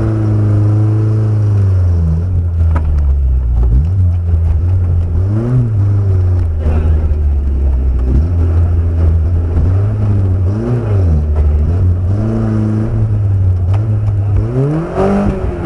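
Off-road 4x4 trial vehicle's engine heard from on board, revving up and down over and over as the driver works the throttle through the section, with a big rev near the end.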